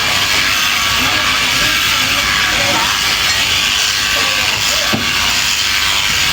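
Electric sheep shears running steadily, a constant hissing buzz.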